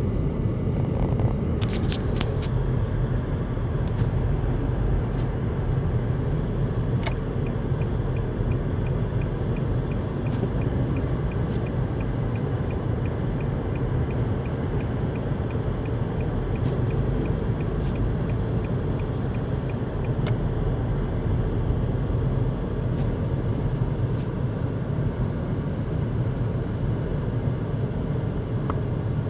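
Car driving on a snowy highway: a steady low rumble of engine and tyres, with a faint, regular ticking of about two ticks a second from about seven to twenty seconds in.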